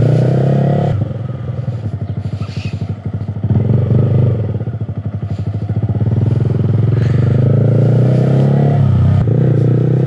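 Yamaha R15 V3's single-cylinder engine running through a Mivv Suono aftermarket exhaust while riding. The throttle opens and closes: the note drops to a lower, pulsing level about a second in, picks up again, and holds steady and loud for the second half, with a brief dip near the end.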